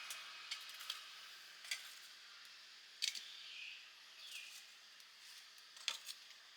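Faint scattered clicks and ticks over a soft hiss, the sharpest about three seconds in and another near six seconds.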